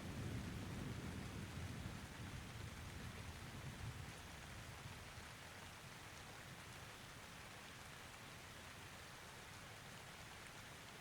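Thunder rumbling away and fading over the first few seconds, leaving steady light rain.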